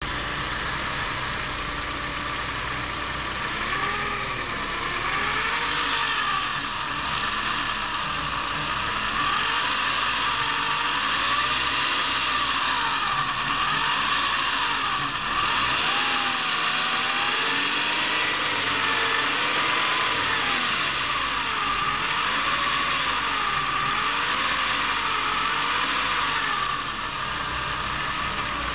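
Saab 900 2.0 turbo's four-cylinder engine idling with a strange wavering whistle that rises and falls in pitch every second or two. The noise comes from hoses that need replacing.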